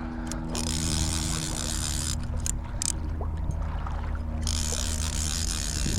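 River water rushing and splashing, with a brighter hiss that drops away a little after two seconds in and returns a bit after four seconds. A steady low hum runs underneath.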